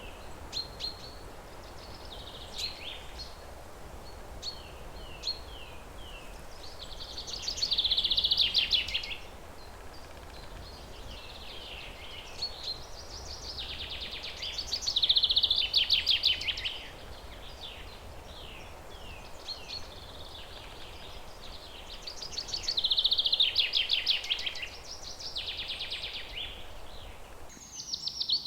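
A wild bird singing the same song over and over: a few short down-slurred notes, then a loud, rapid trill about a second and a half long. The trill comes four times, roughly every seven to eight seconds, over a steady outdoor hiss.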